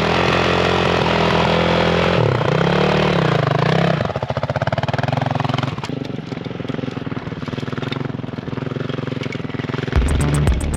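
Single-cylinder Honda CRF dirt bike engine revving up and down several times, then settling into a lower, steady putter at about four seconds in.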